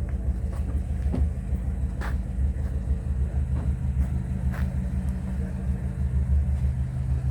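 1962 Ford Consul 375's four-cylinder engine idling steadily, with a few light clicks and knocks over it.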